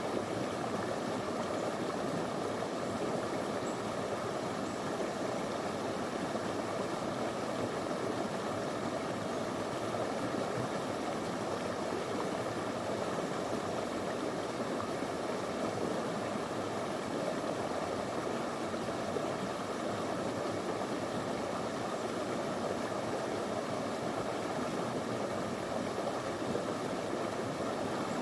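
Small stream of clear water flowing over stones, a steady, even rush of water with no change.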